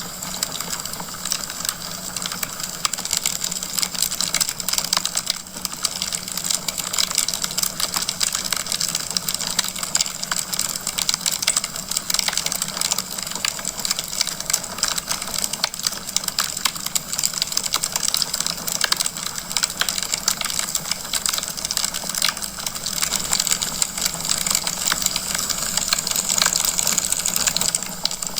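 Wood fire crackling in a fireplace: a dense, steady stream of small pops and snaps over an even hiss.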